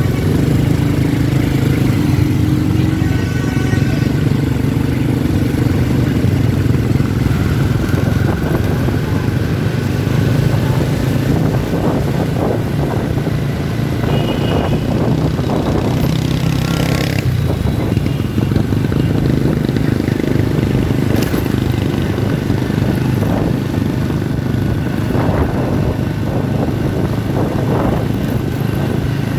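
Steady din of many motorbike engines running together in dense street traffic, with a few brief higher tones over it.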